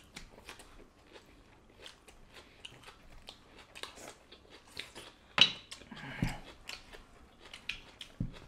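Close-up eating sounds of people chewing rice with pork and egg curry, eaten by hand: a steady run of small wet clicks and smacks, with a louder smack about five and a half seconds in.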